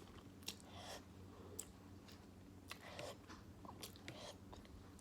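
Faint close-up eating sounds: a person chewing beef ramen noodles, with short scattered mouth clicks, over a faint steady low hum.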